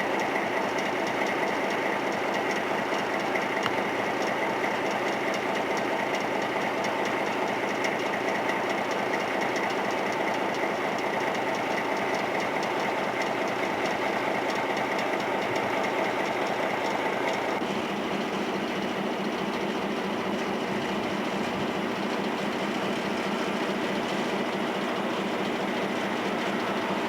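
Train rolling past, with the sound of its engine and the steady rhythmic clatter of wheels on the rails. The sound changes about two-thirds of the way through, when a lower, steadier hum comes forward.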